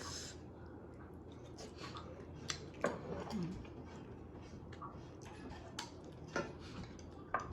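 Close-up eating sounds: a person chewing, with irregular short crunchy clicks and smacks.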